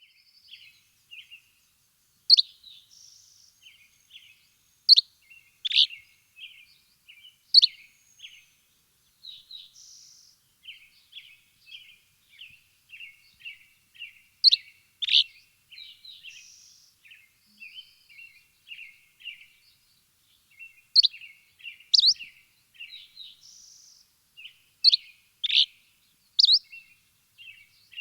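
Birds chirping: a steady stream of short, quick chirps, broken every few seconds by louder, sharp downward-sweeping notes.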